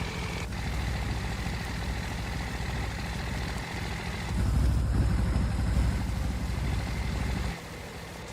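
A low, steady rumble that swells about halfway through and drops away sharply near the end, over a faint hiss.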